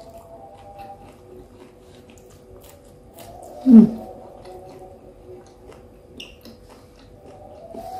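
Close-up mouth sounds of chewing a bite of tahu isi (battered, deep-fried stuffed tofu): soft squishing and small wet clicks. About four seconds in comes one brief, much louder sound that slides down in pitch.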